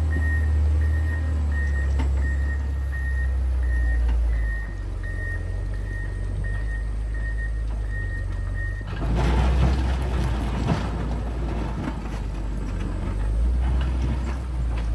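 John Deere 670 motor grader's diesel engine running with its reversing alarm beeping steadily. About nine seconds in the beeping stops and a louder, rougher working noise from the machine takes over.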